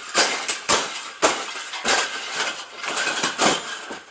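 Wire cage being bent and folded by hand, the metal clanking and rattling in a quick, irregular run of knocks that stops just before the end.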